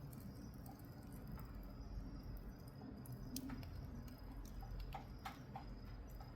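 Firewood fire burning under charcoal, with a few scattered crackles and pops, more of them in the second half, over a low steady rumble.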